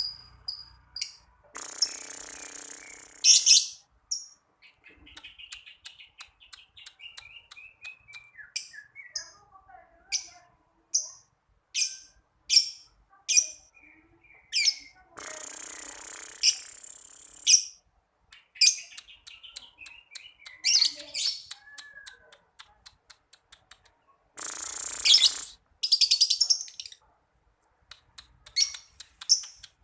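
Lovebird singing: many sharp high chirps and squeaks with softer warbling twitters between them, broken by long harsh chattering trills (ngekek). The longest come at about 2 s, 15 to 17 s and 24 to 26 s, and another starts right at the end.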